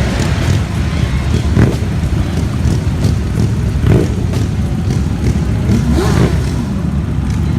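Vehicle engines running at close range as cars and bikes pull away, a steady low rumble with brief revs about a second and a half in and again near the end.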